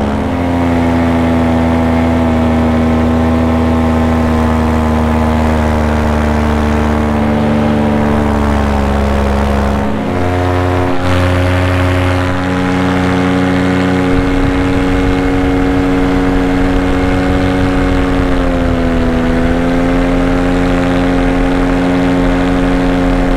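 Paramotor's two-stroke engine and propeller running steadily in flight, its pitch shifting with small throttle changes about ten seconds in and again with a brief dip near the end.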